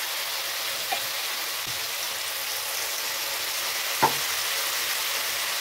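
Spice masala frying in hot oil in a pan, a steady sizzle, with two light clicks about one second and four seconds in.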